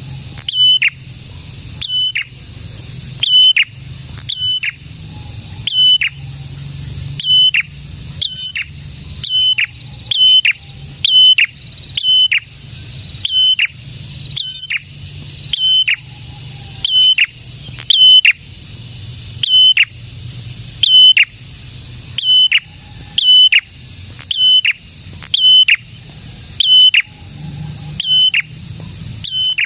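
A prenjak sings its loud, rapid call: sharp high notes that each drop steeply in pitch, often in quick pairs, repeated about once a second without a break.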